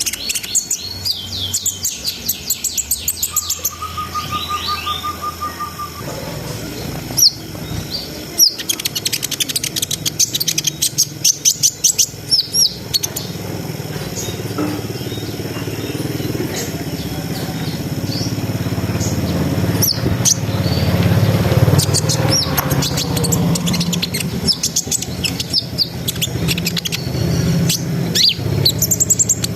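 Kolibri ninja, a sunbird, singing a fast, varied song of high chirps and rattling trills. A low rumble builds up underneath in the second half.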